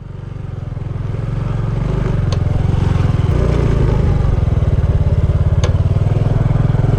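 Yamaha Ténéré 250 motorcycle's single-cylinder engine running steadily with an even, low pulsing, fading in at the start. Two sharp clicks are heard, one about two seconds in and one near six seconds.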